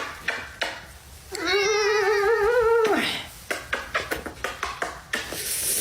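A domestic cat gives one long, drawn-out meow with a wavering pitch, starting a little over a second in and lasting about a second and a half. Light clicks and taps are heard around it.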